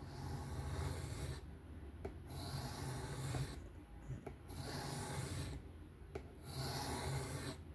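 Folding-knife blade drawn by hand across a sharpening stone: four long, gritty strokes of about a second each, with short pauses between.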